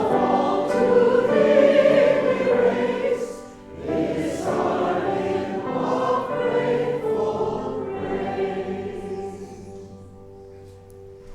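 Choir singing sustained chords, with a short breath between phrases about four seconds in; the last chord fades away near the end.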